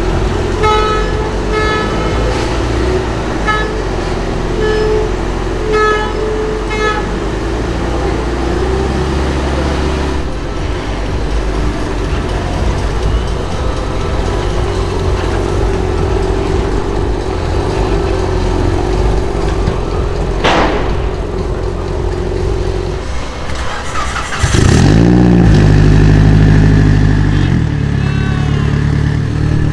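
Car engines idling and moving slowly at low speed, with a run of short repeated beeps in the first seven seconds. About 24 seconds in, one engine revs sharply and loudly, rising and falling in pitch, then settles back to a steady idle.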